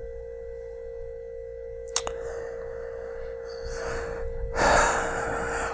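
A single steady pure tone, a background drone under the session, held throughout. A sharp click comes about two seconds in, and a breathy rush of noise swells near the end.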